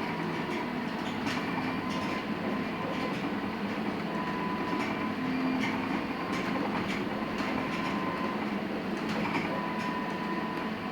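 Cabin noise of a LiAZ-6274 electric bus on the move: steady road and running noise with a thin electric-drive whine that comes and goes, and scattered light rattles and knocks from the body.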